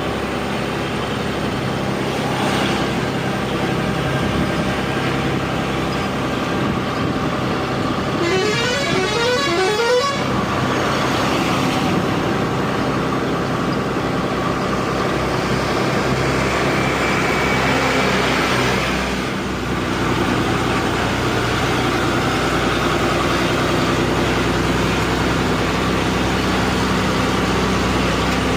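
Truck engine running steadily on the road, with a multi-note horn sounding about eight seconds in, its notes climbing in pitch for about two seconds.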